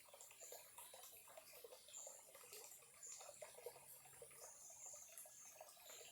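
Faint trickling of a small stream, a steady run of quick small plinks and gurgles.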